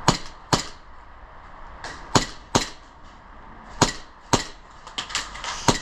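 Airsoft guns firing single shots: about ten sharp cracks, many coming in pairs about half a second apart.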